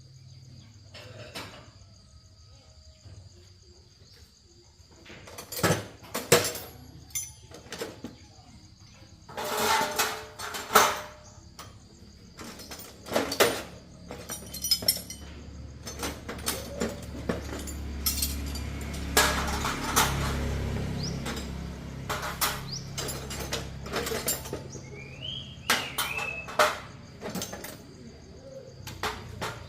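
Metal tools and motorbike parts clinking and knocking in irregular bursts during a motorbike service, over a steady high insect drone. A low hum swells for several seconds in the middle.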